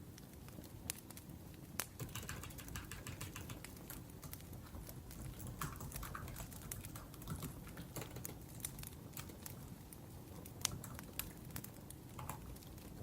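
Laptop keyboard typing in bursts of quick clicks over the crackle of a burning wood fire, with a few sharp louder pops.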